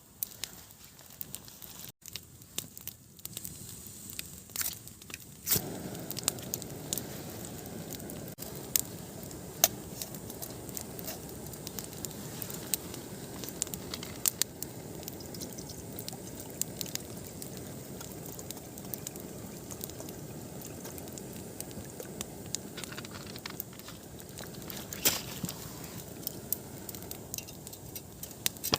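Campfire crackling, with sharp irregular pops and snaps throughout. About five seconds in a steady low rushing sets in under the pops.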